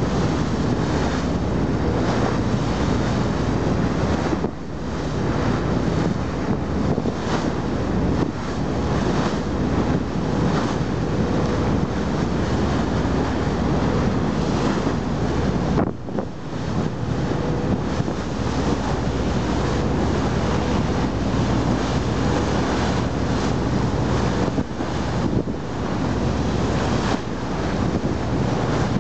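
Strong wind buffeting the microphone over the rush of sea surf, a dense, continuous noise with brief lulls about four seconds in and about halfway through.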